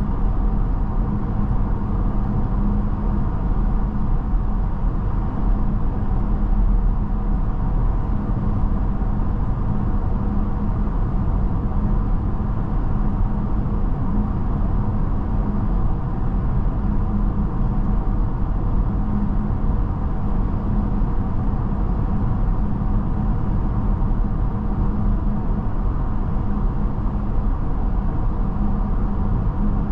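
Mercedes-Benz GLB350 cruising at a steady speed, heard from inside the cabin: continuous road and tyre noise with a low steady hum and no changes in pace.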